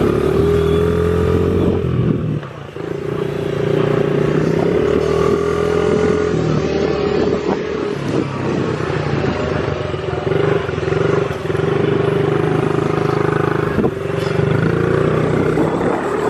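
Gas dirt bike engine running close by, holding fairly steady revs with a brief drop about two and a half seconds in.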